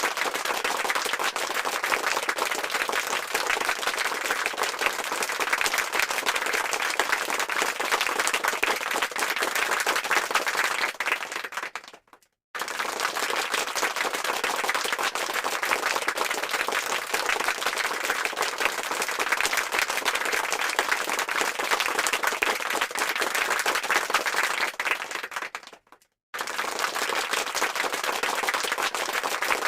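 Applause sound effect: a crowd clapping densely and steadily. It fades out to a brief silence about twelve seconds in and again near twenty-six seconds, then starts again each time as the effect loops.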